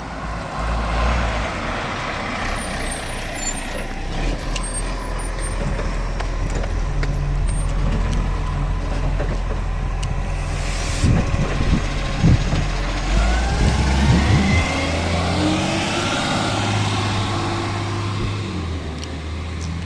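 Garbage truck running, its engine note stepping up and down. About ten seconds in comes a short hiss of air, then a run of knocks and rising whines.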